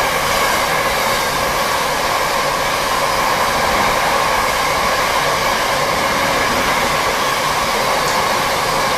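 A merry-go-round coal train of hopper wagons rushing steadily past at speed behind a Class 66 diesel locomotive. The train's slipstream buffets the microphone with a strong rush of wind.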